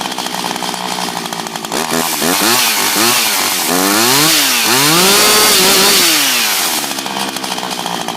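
Husqvarna 359 59cc two-stroke chainsaw engine idling, then revved in several quick throttle blips and one longer held rev before dropping back to idle.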